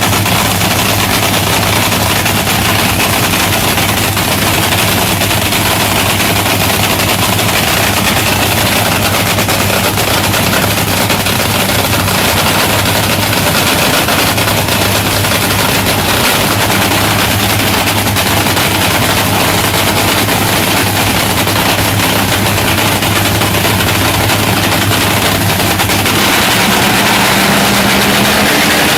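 Large engine running loudly at a steady speed, a hard, rapid-firing exhaust note over a steady low hum. Near the end a higher tone comes in and rises slightly.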